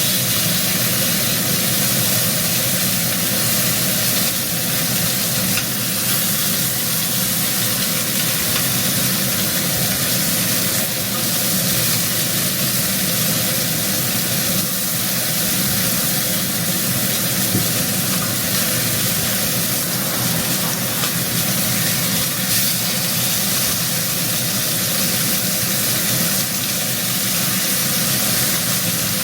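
Beef short ribs frying in hot oil: a steady sizzle.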